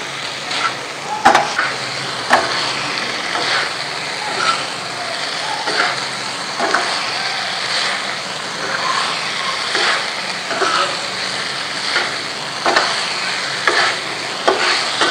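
Chicken liver pieces sizzling steadily in oil on an iron tawa, with short sharp scrapes and clinks of a metal spatula stirring them now and then.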